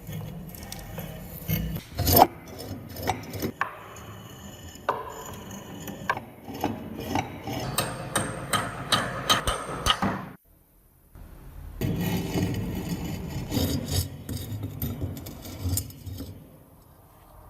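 Hand scraping and rubbing on the rusty metal of a manual meat grinder, with irregular clicks and knocks, a quick run of strokes, a brief break, then more scraping.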